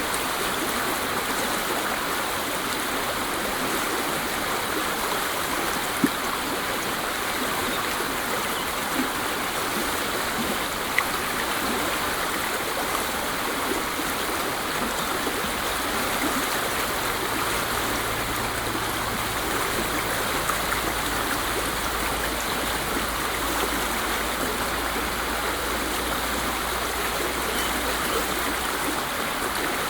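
Waterfall: a steady, unbroken rush of falling water, with a couple of faint brief ticks.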